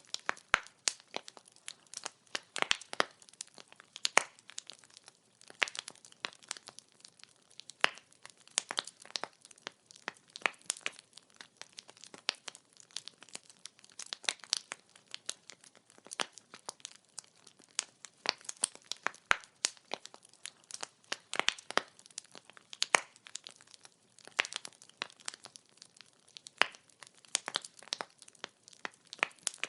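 Burning firewood crackling: many sharp, irregular pops and snaps, several a second, over a faint hiss.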